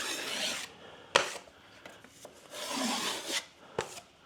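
A plastering knife scraping across cornice cement, in two strokes with a sharp tap after each.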